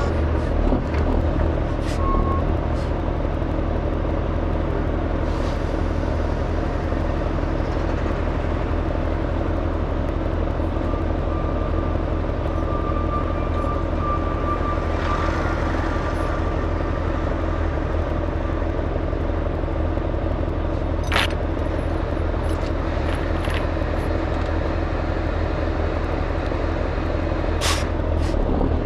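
Heavy truck's Cummins diesel engine running steadily at one speed. There is a short hiss about halfway and a couple of sharp clicks near the end.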